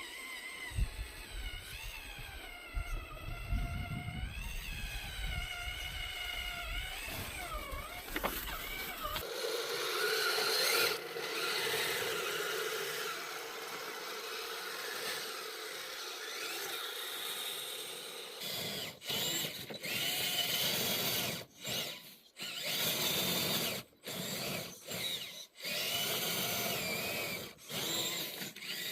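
Electric motor and geared drivetrain of a radio-controlled scale truck whining, the pitch wavering up and down with the throttle. Over the second half the whine stops and starts in short bursts.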